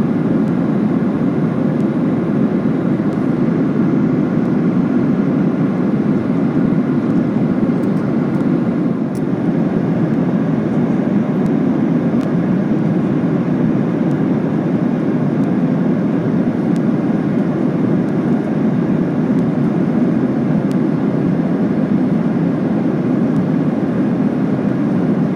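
Steady cabin noise inside a Boeing 737-800 in cruise flight: a constant low roar of airflow and engines at an even level.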